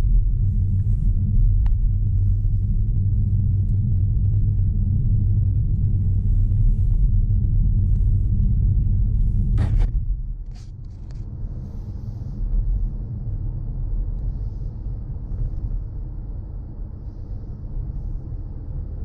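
A car driving, giving a steady low rumble of road and engine noise. About ten seconds in there is one sharp click, and after it the rumble is quieter.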